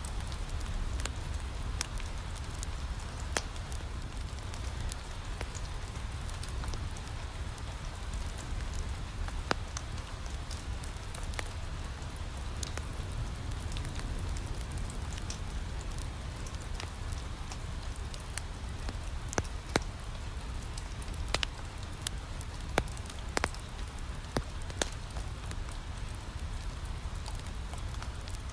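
Steady rain pattering against a window, mixed with a wood fire crackling in a fireplace: scattered sharp pops over a low, steady rumble, with a few louder pops in the second half.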